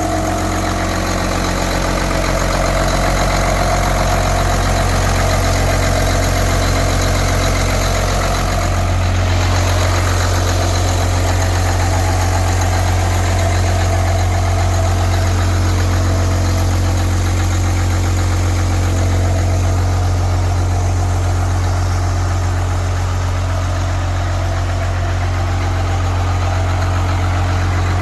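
12-valve Cummins inline-six diesel idling steadily through a custom-built exhaust, with a deep hum that grows a little louder about a third of the way in.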